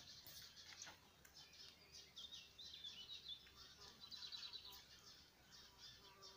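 Faint birdsong: small birds giving quick chirps and short trilled runs of notes.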